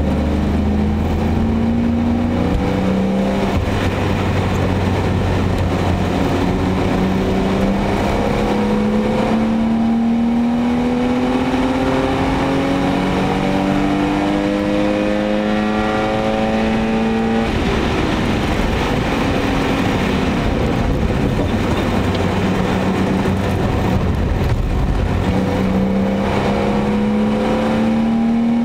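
BMW 525i E34's 2.5-litre 24-valve Vanos straight-six (M50B25TU) pulling hard at track pace, heard from inside the cabin over tyre and road noise. Its pitch climbs, dips briefly about three seconds in, then rises steadily for a long stretch. It falls about 18 seconds in, holds lower for a while, and climbs again near the end.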